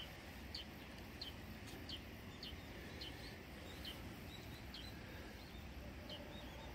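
Faint bird chirping: short, high calls, each dropping slightly in pitch, repeated irregularly about twice a second over a quiet steady outdoor background.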